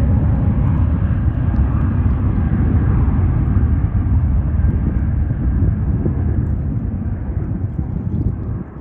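Jet airliner's engines rumbling loudly as it passes, the rumble slowly fading over the last few seconds.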